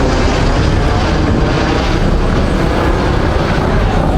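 Steady, loud rumble of a vehicle on the move, engine and road noise blended together with no clear engine note.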